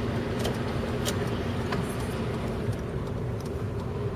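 A car driving at about 40 mph, heard from inside the cabin: a steady rumble of engine and road noise with a low hum. A few faint, sharp ticks come in the first two seconds.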